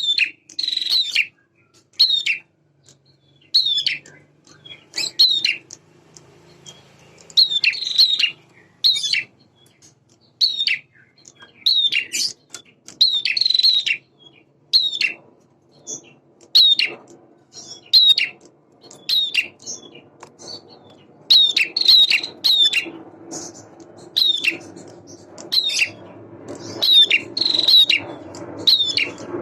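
Male prinia (prenjak) calling over and over: short, sharp, high chirps that drop in pitch, coming every second or two, some singly and some in quick runs of two or three.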